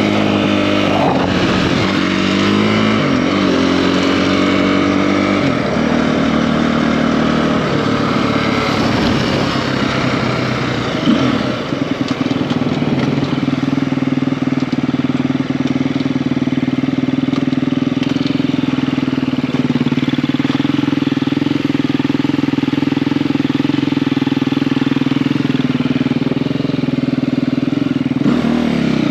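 KTM EXC-F enduro motorcycle's single-cylinder four-stroke engine, bored out to 280 cc, on the move: its pitch rises and falls through throttle changes for the first few seconds, then holds a steady note at constant revs. There is a sharp knock about eleven seconds in, and the pitch dips briefly near the end.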